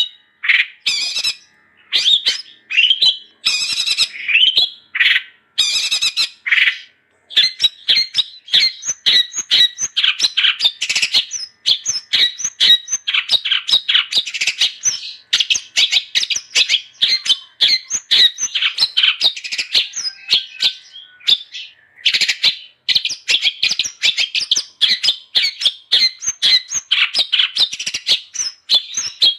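Long-tailed shrike (cendet) in full song: a fast, nonstop chatter of sharp, high notes, broken by short pauses about seven seconds in and again near twenty-two seconds.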